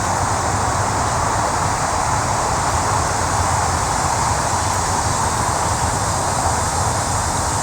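Steady, even roar of road traffic passing on a nearby road.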